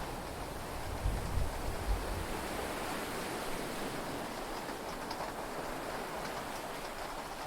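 Heavy rain and sea noise heard from inside a yacht cabin as a steady hiss, with the tail of a low thunder rumble dying away in the first two seconds.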